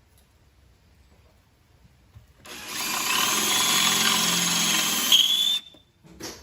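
Power drill boring into the car's sheet metal in one run of about three seconds, with a steady whine. A short squeal near the end comes as the bit binds and sticks, and the drill cuts off suddenly.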